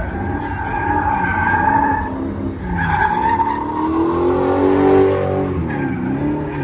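Car tyres squealing in long screeches over an engine revving up and down, as in a drift or burnout run.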